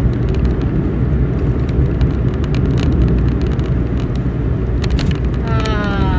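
Steady low rumble of a small car heard from inside the cabin while driving, with faint clicks over it. Near the end a pitched tone glides slowly downward.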